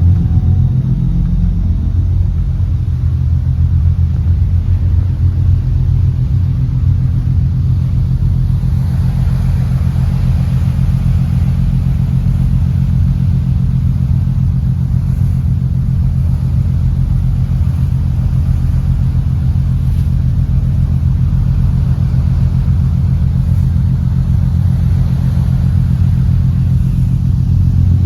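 An engine running steadily at constant speed, with a rushing noise of wind or water that swells from about 8 seconds in.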